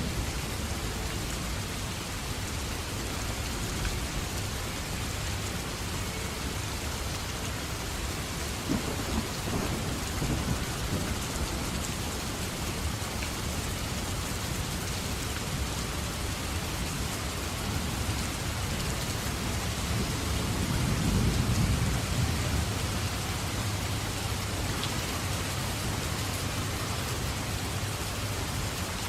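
Steady heavy rain falling, with thunder rumbling low in the background: a first roll about a third of the way in and a louder, longer roll about two-thirds of the way through.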